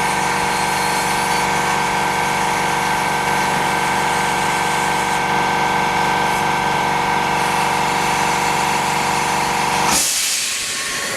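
Steady whine of a small electric motor-driven glue-removing tool running as old adhesive is cleaned off an OLED phone screen. It stops about ten seconds in with a short hiss.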